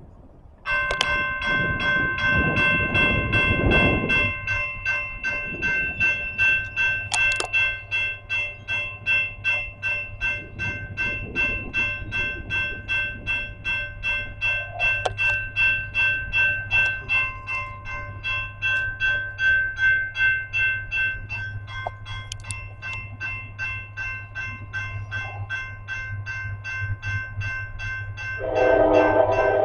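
A railroad bell rings steadily about twice a second while a train's low engine rumble runs underneath. Near the end a train horn starts to blow.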